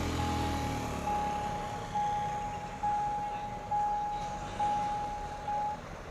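An electronic warning bell rings a single high tone, struck again about once a second, and stops shortly before the end. A train's low engine rumble fades under it at the start.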